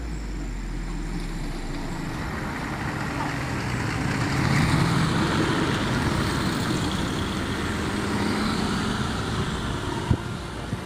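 Truck running along the road: engine and road noise that grows louder about four seconds in, with a single sharp knock near the end.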